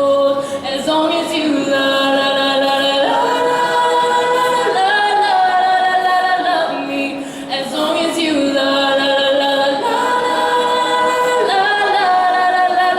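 Voices singing long, held notes of a pop-song chorus, with several notes overlapping and no instrumental backing.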